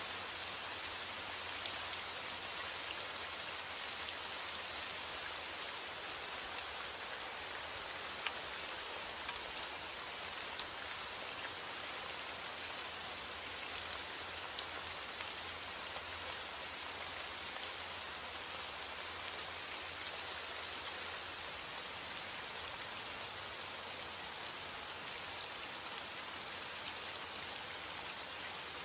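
Steady heavy rain falling, a dense even hiss with many small drop ticks scattered through it.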